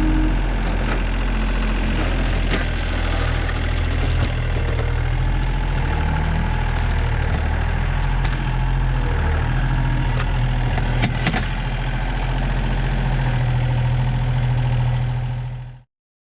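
Yanmar compact tractor's diesel engine running steadily, with a few brief knocks and clanks over it. The sound cuts off suddenly near the end.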